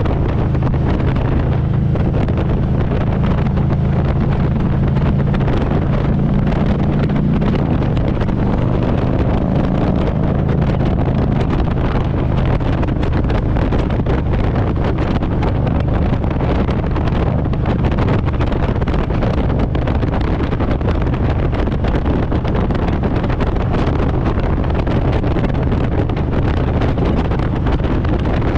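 Harley-Davidson Road Glide's V-twin engine running steadily while riding, with wind noise on the microphone. The engine note is strongest for the first eight seconds or so, then eases slightly.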